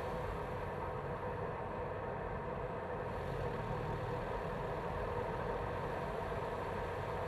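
BMW B48 2.0-litre turbocharged four-cylinder engine idling steadily, heard close up from inside the engine bay.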